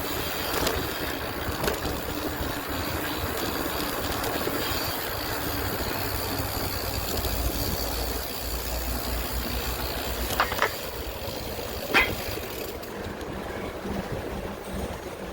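Steady rushing noise of riding along on a bicycle, with a deep rumble swelling in the middle and two sharp clicks near the end.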